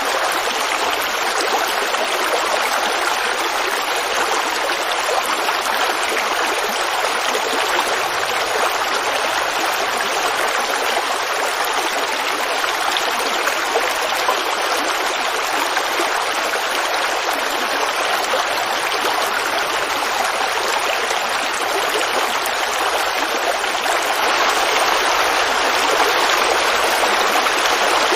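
A forest creek's water babbling and rushing steadily, a little louder over the last few seconds.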